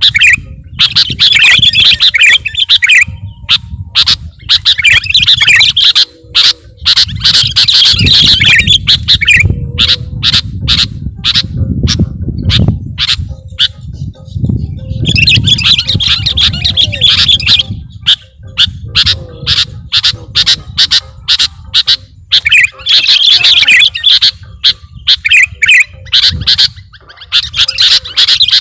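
Sooty-headed bulbul (kutilang) singing loudly in repeated bouts of rapid chattering song, with sharp short notes between the bouts, over a low rumble.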